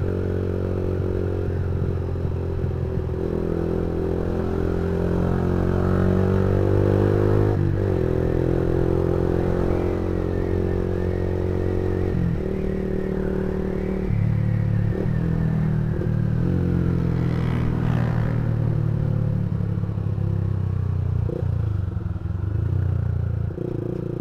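Yamaha MX King 150's single-cylinder four-stroke engine running through a custom racing exhaust, its pitch stepping up and down several times.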